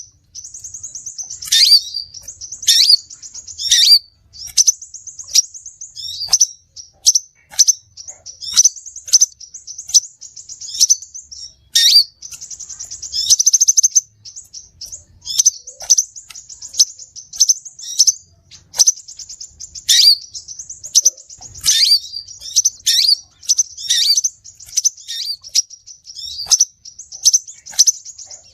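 Crimson sunbird (sepah raja) calling: fast, high-pitched trills and chirps broken every second or two by sharp notes that sweep downward, repeated without pause.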